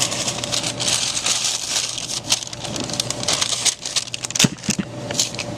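Crinkling and rustling with many scattered clicks and taps, over a steady low hum.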